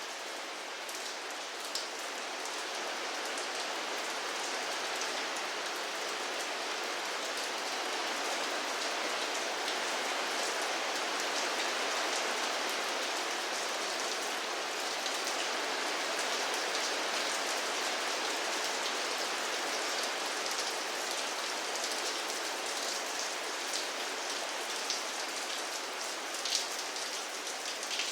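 Steady rain falling on a surface, a continuous patter with individual drops ticking sharply now and then, a few more of them near the end.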